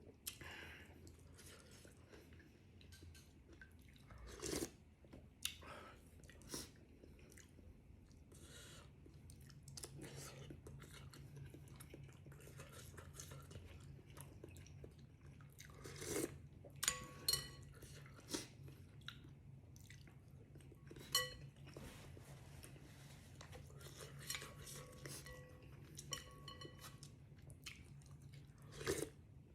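A person chewing food close to the microphone, with some crunching and biting. Utensils clink against a bowl with a short ring several times, mostly in the second half, over a low steady hum.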